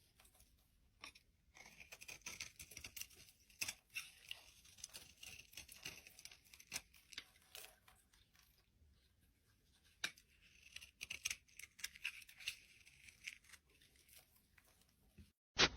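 Irregular crisp crackling and crunching, as of a crunchy material being pressed, torn or cut up close, in clusters with a pause of a couple of seconds past the middle.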